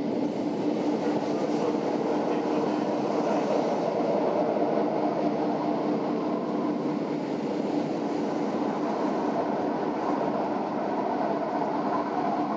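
Aigle–Sépey–Diablerets metre-gauge electric train running downhill, heard from inside the carriage: a steady rumble of wheels on rail with a hum of several held tones from the running gear.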